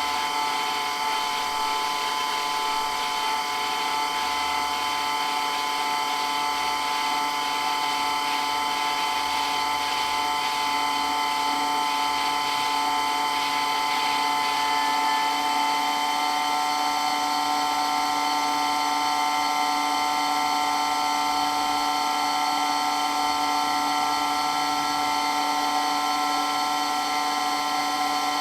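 Water pump running steadily with a loud, constant whine made of several high tones.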